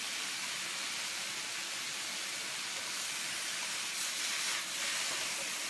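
Squid, mushrooms and water spinach stir-frying in a frying pan over high heat: a steady sizzle, with a few light stirring scrapes about four seconds in.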